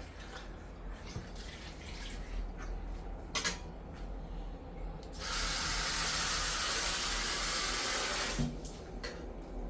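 Kitchen tap running steadily for about three seconds, starting about halfway in and shutting off abruptly, as water goes into the pressure cooker. A single click comes a little before it.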